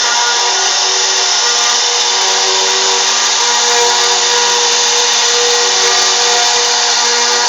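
CNC router spindle running steadily while carving, a loud, constant whir with several tones that drift slightly in pitch over a cutting hiss.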